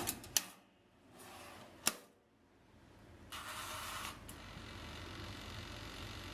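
A few sharp clicks or knocks in the first two seconds, then a brief rustle about three seconds in.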